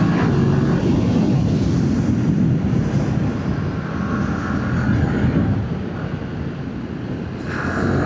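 Yamaha MT-07's parallel-twin engine running at road speed, mixed with wind rushing over the microphone.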